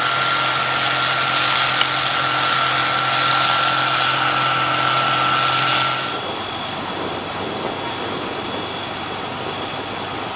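Steady mechanical running noise with a constant whine and a low hum. About six seconds in it cuts off abruptly and gives way to a quieter, even hiss with a string of short, high chirps.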